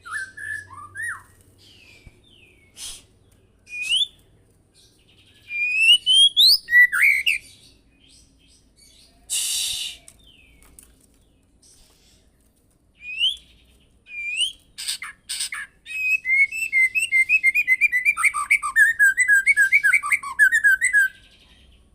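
White-rumped shama singing a varied song of clear whistled phrases that glide up and down in pitch, with a short harsh rasping note about nine seconds in and a long fast run of repeated notes near the end.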